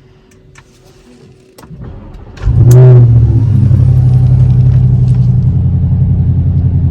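Audi RS7's 4.0-litre twin-turbo V8 starting up. After a few light clicks and a brief crank, it catches about two and a half seconds in with a loud flare of revs, then settles into a steady, pulsing idle.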